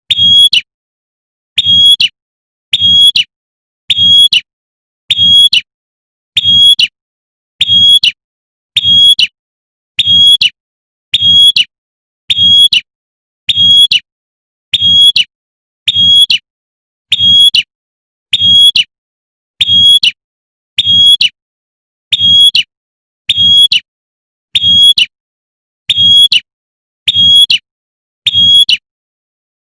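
Female prinia (prenjak) giving its short, sharp 'tembakan' call, repeated at an even pace of about once every 1.2 seconds, each note carrying a low thump beneath it. The dead silence between calls marks it as a looped lure recording.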